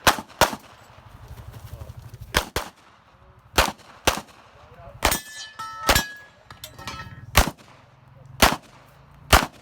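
Pistol shots fired during a timed competition stage: about ten sharp shots, some in quick pairs and others spaced a second or more apart, as the shooter moves between targets. About five seconds in, a hit on a steel target sets it briefly ringing.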